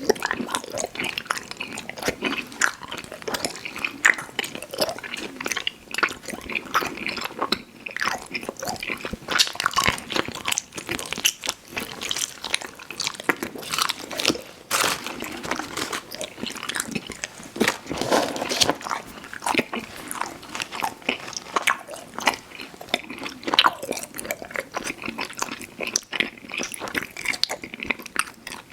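Close-miked chewing of chewy fruit candy: a continuous, irregular run of wet mouth smacks and sticky clicks as the candy is bitten and worked between the teeth.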